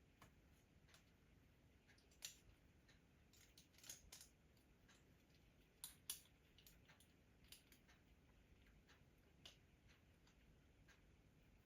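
Near silence with faint, scattered clicks and light metallic taps from small hardware being handled. A few sharper ticks come about two, four and six seconds in.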